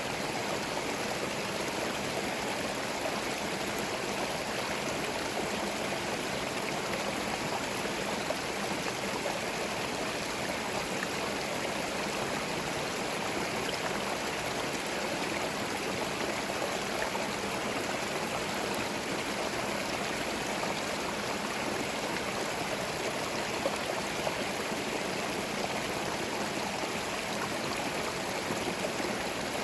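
Small forest stream flowing over stones, a steady, even babbling and splashing with no birds or voices.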